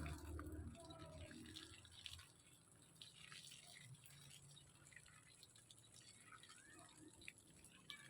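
Near silence with faint scattered ticks and clicks.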